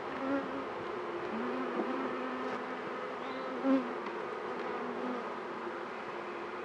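Honeybees buzzing around an opened hive: a steady swarm hum, with single bees flying close past the microphone, the loudest about halfway through.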